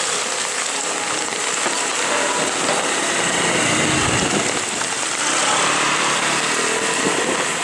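Steady hiss of heavy rain on the wet road and raincoats, with a scooter's small engine running close by and swelling about three to four seconds in as it rides past.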